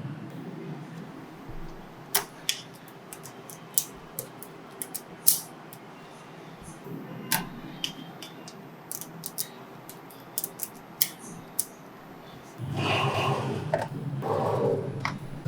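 Small neodymium magnetic balls clicking as they are snapped together onto a model, sharp single clicks at irregular intervals. A louder, fuller sound comes in near the end.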